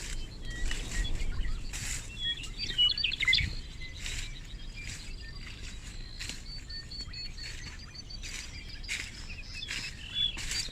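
Small birds chirping and trilling, with short sharp rustling crunches every second or two.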